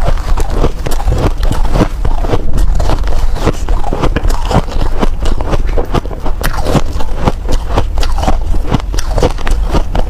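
Snow ice being bitten and chewed close to the microphone: dense, irregular crunching, several sharp cracks a second, over a low hum.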